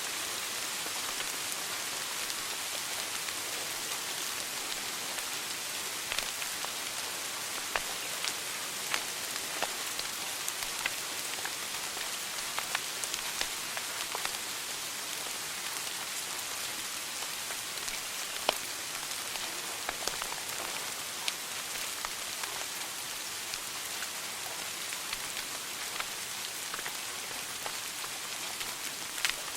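Wood fire burning in a fireplace: a steady hiss with irregular sharp crackles and pops, a few each second.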